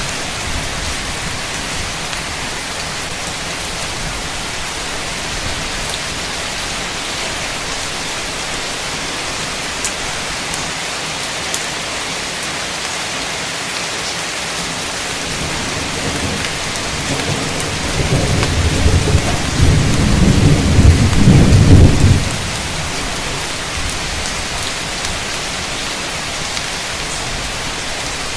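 Heavy rain falling steadily, with a clap of thunder about two-thirds of the way in: a low rumble that builds over several seconds and cuts off suddenly.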